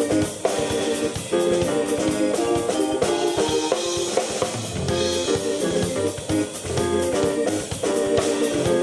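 Live keyboard and drum kit duo playing rock: repeated keyboard chords over a steady drum beat with cymbals.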